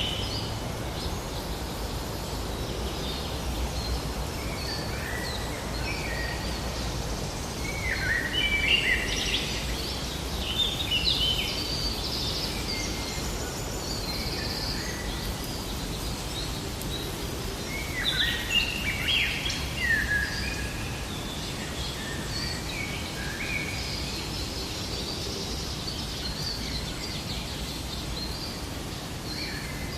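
Birds chirping and calling over a steady outdoor background hiss, the calls coming thickest in two spells, one about a third of the way in and another just past the middle.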